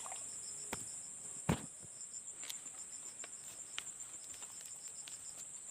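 Chorus of insects shrilling steadily in a high band, with a second, pulsing trill beneath it. A few sharp clicks, the loudest about a second and a half in.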